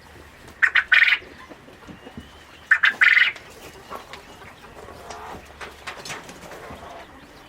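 A farm bird calls loudly twice, about two seconds apart. Each call is a short note followed at once by a longer, harsh one.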